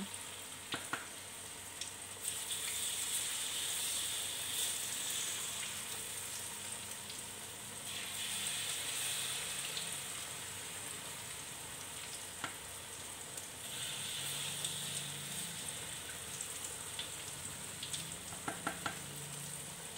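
Corn fritter batter sizzling in hot oil in a wok, the sizzle swelling and easing several times as spoonfuls of batter go in. A few sharp clicks of the spoon against the wok.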